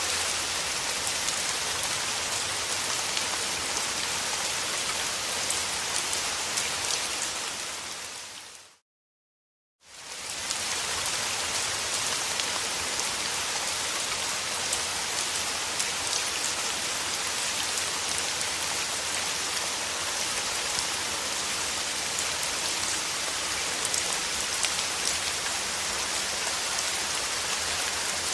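Steady rain falling on a surface, a dense patter of drops. About eight seconds in it fades away to a second of silence, then fades back in and carries on.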